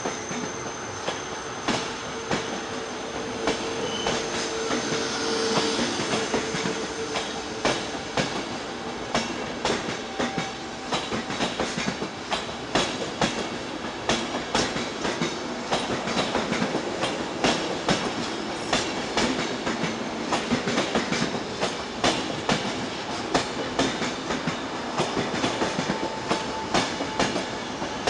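Thello night-train passenger coaches rolling past a platform: a dense run of wheel clicks over rail joints and points, with a steady squeal in the first several seconds.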